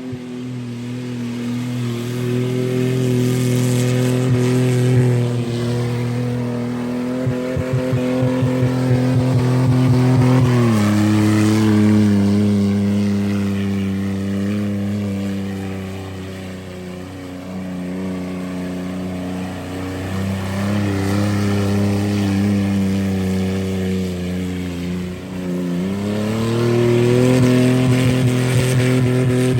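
Car engine held at high, steady revs for a long stretch. The pitch drops about ten seconds in and climbs back up near the end, with a brief rapid stutter before the drop.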